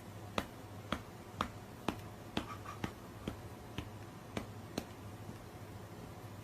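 Faint regular clicking, about two clicks a second, over a low steady hum.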